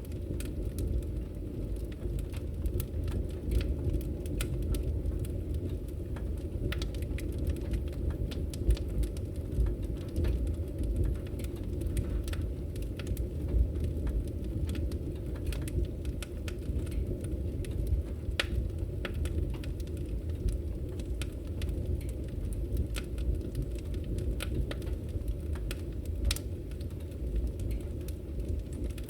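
Log fire burning in a fireplace: a steady low rumble of the flames with frequent irregular sharp crackles and pops from the burning wood.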